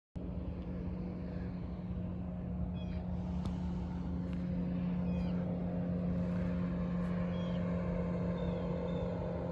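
A steady low motor hum, like an engine running in the distance, with a few faint, short, high bird chirps over it.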